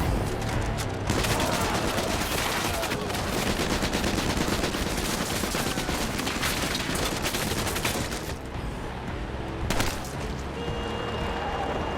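Sustained automatic gunfire, a dense fusillade of many rapid shots, easing after about eight seconds, with one more loud bang near ten seconds.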